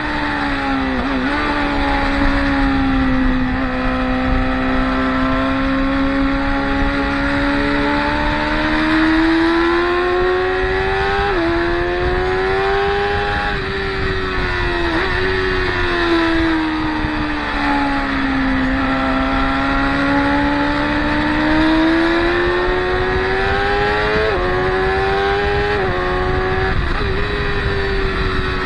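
Motorcycle engine running at high revs on a race track, its pitch slowly rising and falling, with several abrupt jumps in pitch that sound like gear changes.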